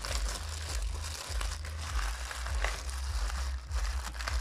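Plastic bag crinkling and rustling as a car speaker is worked out of it, in irregular crackles over a steady low hum.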